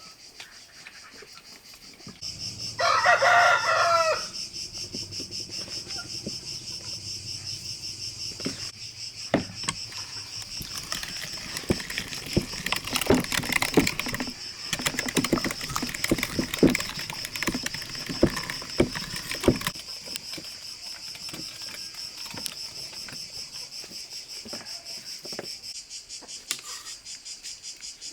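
A rooster crows once, about three seconds in, over a steady high trill of crickets. From about ten to twenty seconds in comes a run of irregular clicks and knocks.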